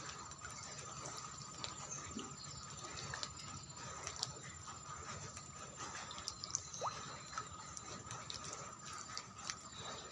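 Rain falling steadily, with many irregular drips ticking and splashing close by over a soft hiss.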